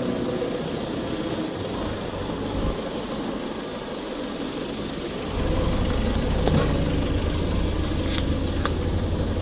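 Steady machinery noise in a factory. About five seconds in, a motor starts with a low, steady hum and keeps running, with a few light metallic clicks.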